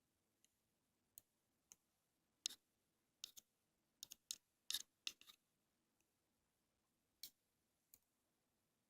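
Ear-cleaning ASMR sounds: about a dozen short, sharp clicks and scratches at irregular intervals, bunched together in the middle, over near silence.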